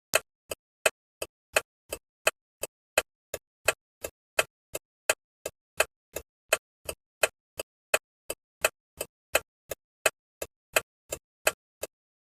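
Turn-signal relay ticking: an even tick-tock of alternating loud and soft clicks, about three a second, with each loud–soft pair marking one flash of the indicator.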